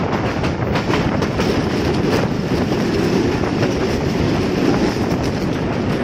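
Local passenger train running along the track, heard from inside a carriage at the open window: a steady rumble of wheels on rails with a few irregular clacks.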